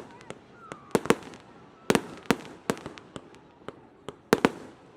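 Fireworks going off in a rapid, irregular string of sharp bangs, about two or three a second, some closely doubled.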